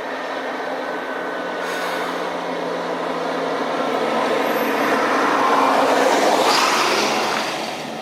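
Jet airliner passing overhead: a rushing jet noise with a few steady tones that builds to a peak about six seconds in, then fades.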